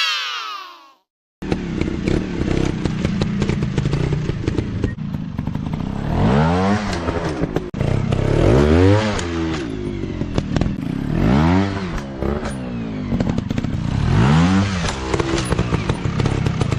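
Dirt bike engines running, with one bike revving up and back down four times, about every two and a half to three seconds, in the second half. It opens with a falling pitched tone that cuts to a moment of silence.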